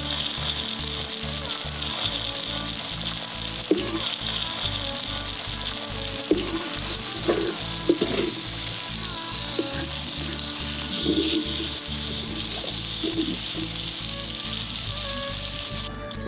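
Shallots sizzling hard in hot oil as they are tipped into a pot, the sizzle starting suddenly. A wooden spatula scrapes now and then as they are stirred.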